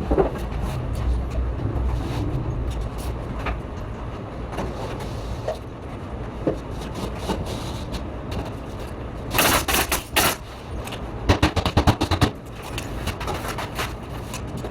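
Pneumatic nail gun firing in quick strings of shots, with scattered knocks over a steady low site rumble. A loud hissing burst comes about nine and a half seconds in, and a rapid run of shots follows around eleven to twelve seconds.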